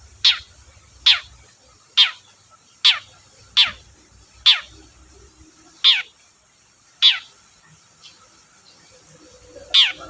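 Long-tailed shrike (cendet) calling about nine times at irregular gaps of roughly a second. Each call is a short, quick downward sweep from very high to mid pitch.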